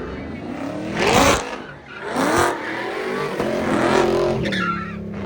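A car engine revving hard in repeated bursts, about a second apart, its pitch climbing with each, then holding at a high, steady run.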